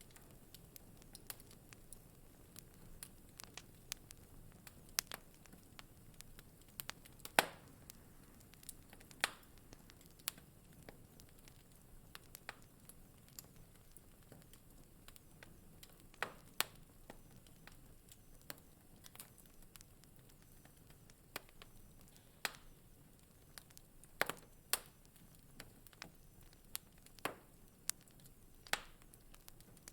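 Wood fire crackling in a fireplace: irregular sharp pops and snaps over a soft low hiss, some pops much louder than the rest.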